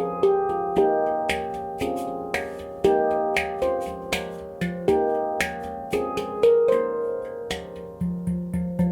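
F minor handpan by Oasis Sound Sculpture being played by hand. Its struck steel notes ring on in a steady rhythm, with a quick run of strikes near the end.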